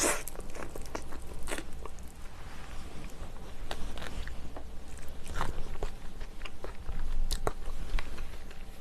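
A person chewing and biting mouthfuls of seafood stew close to the microphone, with irregular wet clicks and small crunches throughout.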